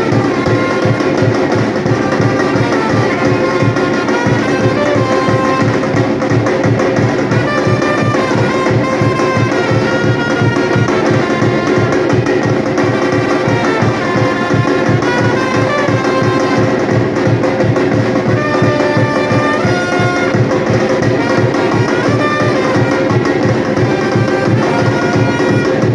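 Batucada drum ensemble playing a fast, steady samba rhythm, with a horn-like melody moving in steps above the drums.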